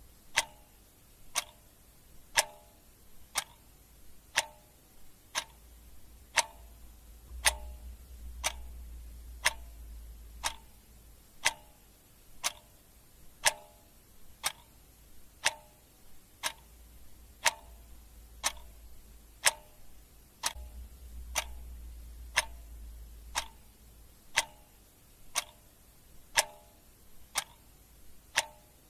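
Clock ticking steadily, about one tick a second, the ticks alternating louder and softer.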